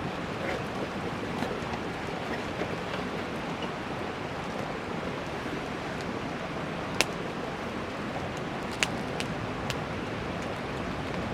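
Wood fire burning: a steady hiss with a few sharp crackles, the loudest about 7 and 9 seconds in.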